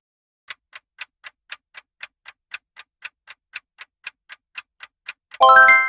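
Countdown-timer sound effect: a clock ticking about four times a second, then a chime with several ringing tones near the end, the loudest sound, marking the end of the answer time.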